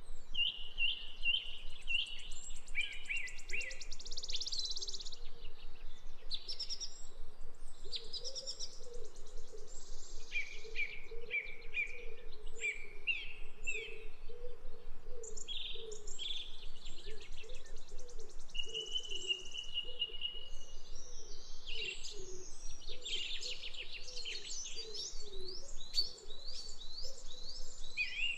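Several birds chirping and calling in overlapping short notes, trills and rapid repeated phrases, with one steady whistled note about two thirds of the way in, over a steady background hiss.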